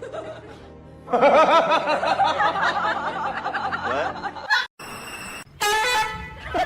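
A person laughing in a long run of quick, repeated bursts, followed by a brief steady tone and more voice near the end.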